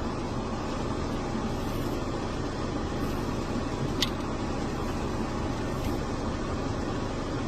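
Steady low rumble of a vehicle engine running, with one brief sharp click about four seconds in.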